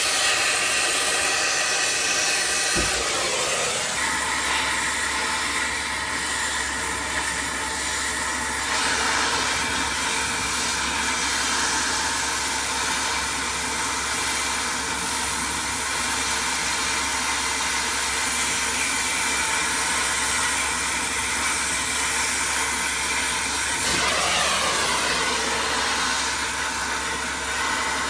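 Cutting torch burning with a steady hiss, its tone shifting about 3 seconds in and again around 24 seconds.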